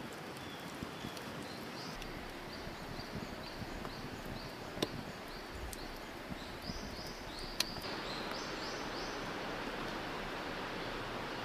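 Campfire crackling with a few sharp pops, over a steady outdoor background with a run of short high chirps repeating a few times a second.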